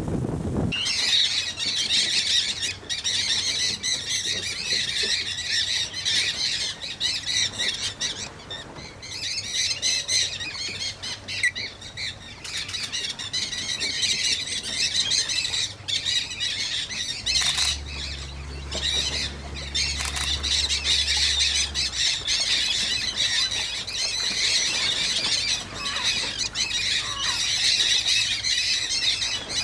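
A large flock of mealy amazon parrots squawking continuously, a dense overlapping chorus of harsh calls at a clay lick. A low steady hum joins for a few seconds in the middle.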